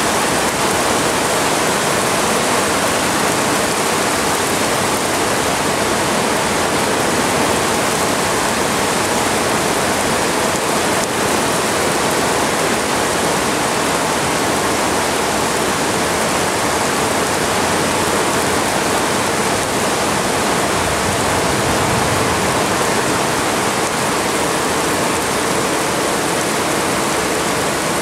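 Heavy rain pouring down in a hard, steady downpour, a storm heavy enough to flood the yard.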